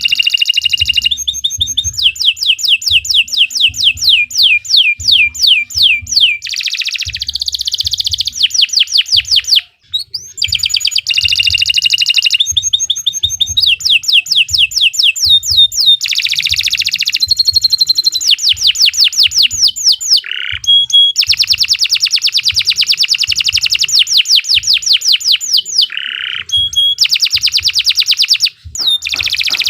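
Domestic canary singing a long, loud song of rapid trills: fast runs of falling notes in phrases that change every few seconds, with one brief break about ten seconds in.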